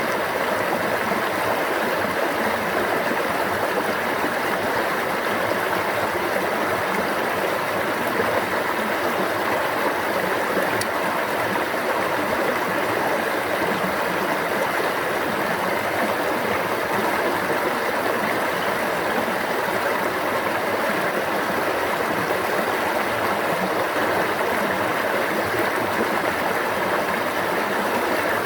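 Stream water running, a steady even babble that does not change.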